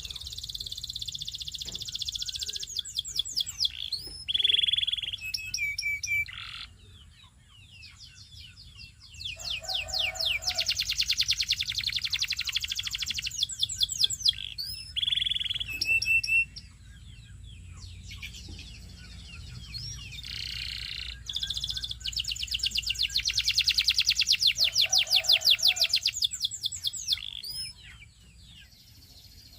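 Belgian singing canary in full song: fast rolling trills and rapidly repeated notes in three long bouts, with short pauses between them.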